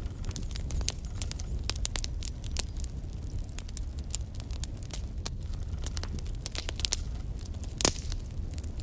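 Logs burning in a fireplace, crackling with frequent irregular sharp pops over a low steady rumble; one louder pop near the end.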